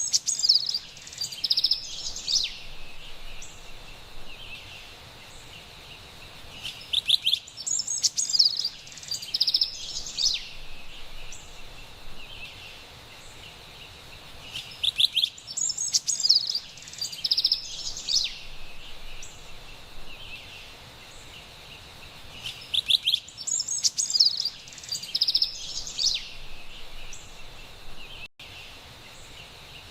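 Carolina wren singing: a burst of loud, rapid ringing song phrases about every eight seconds, four times in all, over a faint steady forest background hiss. The sound drops out for an instant near the end.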